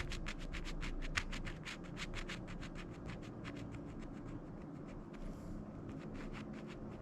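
A rapid, even series of sharp clicks, about seven or eight a second, over a low steady hum, growing fainter toward the end.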